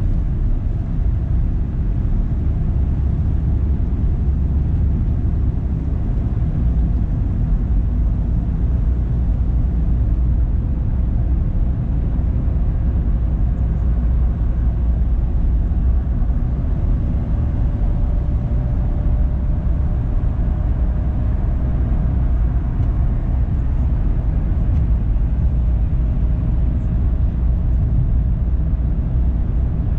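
A car driving: a steady low rumble of engine and tyre noise, with a faint hum that slowly rises in pitch.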